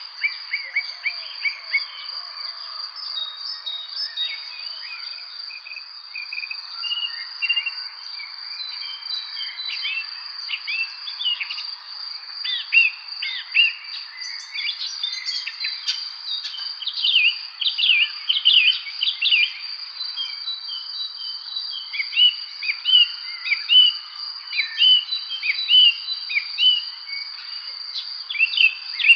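Evening birdsong: many birds chirping in quick, short notes that fall in pitch, busier in the second half, over a steady high-pitched ringing drone.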